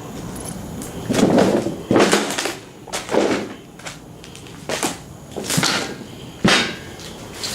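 Footsteps crunching on debris, about six uneven steps roughly a second apart.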